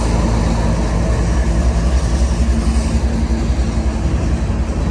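Diesel freight locomotive in the middle of a CSX train passing close by, its engine running steadily under the rumble of freight car wheels on the rails.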